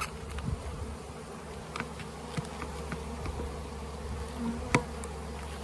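A package of honeybees buzzing steadily, with a few small plastic clicks and knocks as the package's tabs are worked with a hive tool, one sharper click near the end.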